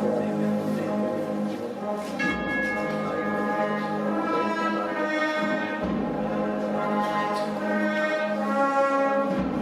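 Processional band of cornets, trombones and drums playing a Holy Week march, with sustained brass chords and deep low notes entering a few times.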